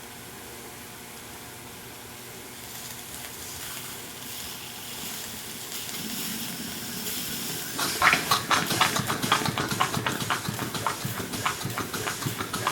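Small two-cylinder steam engine being started on about 50 pounds of boiler pressure. A hiss of steam builds, then about eight seconds in the engine begins running with quick, regular exhaust chuffs.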